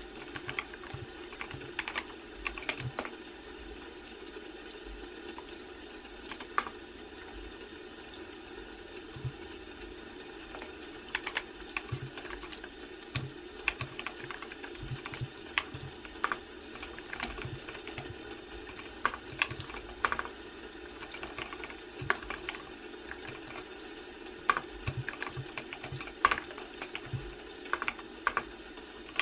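Typing on a computer keyboard: irregular keystroke clicks in quick runs with short pauses, over a steady background noise.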